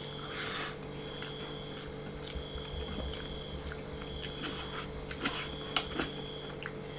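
Close-up eating sounds of a man eating rice and chicken curry by hand: chewing, with scattered wet mouth clicks and smacks. A soft rustle comes about half a second in, over a faint steady hum.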